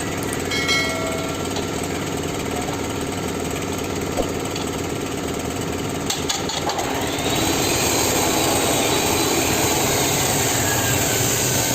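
Powertrack 430 tractor's diesel engine running steadily. About seven seconds in the sound grows louder, with a high hiss and a faint whine that slowly falls in pitch.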